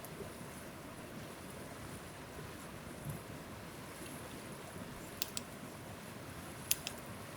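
Steady forest ambience with an even rushing noise like a stream or wind. A few sharp snaps or crackles come about five seconds in and again near seven seconds.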